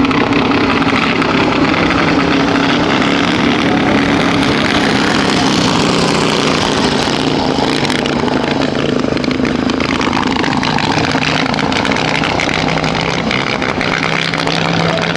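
Motorcycle engines running loudly and steadily under a low engine drone, with a pitch that falls and rises again in the middle.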